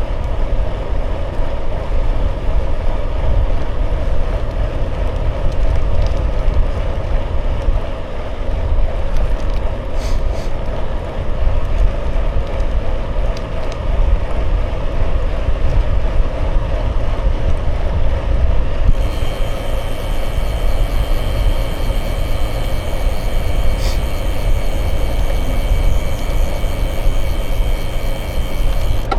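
Wind buffeting the microphone in a steady low rumble, with bicycle tyre rolling noise, while riding. About two-thirds of the way in, a steady high-pitched whine joins and holds.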